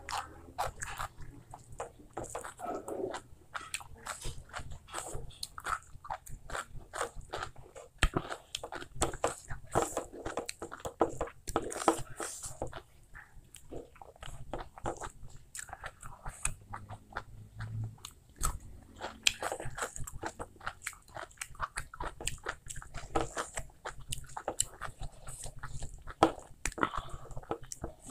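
Close-up eating sounds: a man chewing handfuls of rice and beef curry, with many short, irregular mouth clicks throughout.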